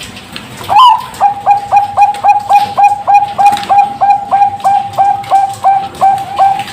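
Zebra dove of the Thai Bangkok song line (perkutut bangkok) cooing: one higher note under a second in, then a fast run of short, evenly spaced coos at about three a second.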